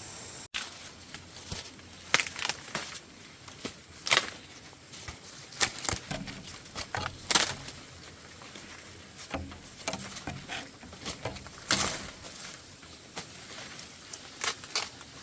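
Irregular rustles, crackles and light knocks, scattered unevenly, from something being handled.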